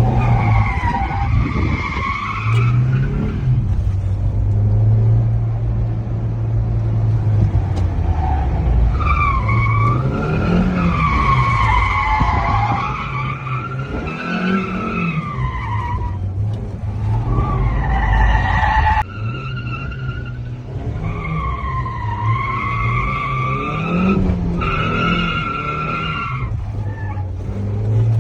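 Suzuki Carry mini truck drifting: several long tyre squeals that waver in pitch, over the small engine revving up and down.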